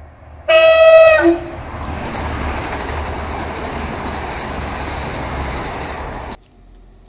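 TransPennine Express Class 185 diesel multiple unit sounding its two-tone horn about half a second in: a loud high note, then a brief low note. The steady noise of the train going past follows and cuts off suddenly about six seconds in.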